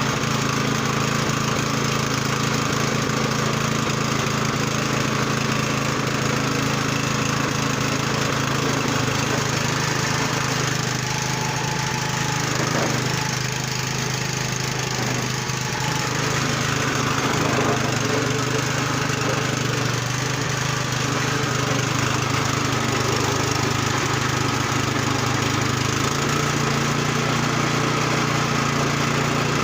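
Yard Machine snow blower's small gas engine running steadily after its carburetor was cleaned, with a slight change in its pitch near the end.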